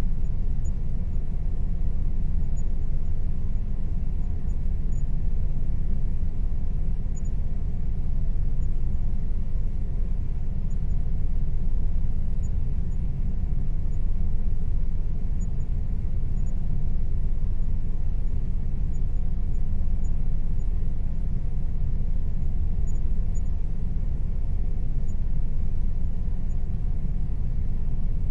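Air conditioner running steadily: a constant low rumble with a faint steady hum above it.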